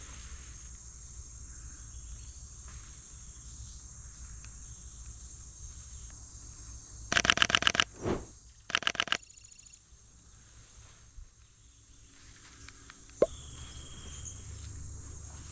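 Insects buzzing steadily in tropical rainforest, cut through about seven seconds in by two short bursts of rapid clicking, about ten a second, from a Sony A7IV mirrorless camera's shutter firing in continuous mode. A single sharp click follows near the end.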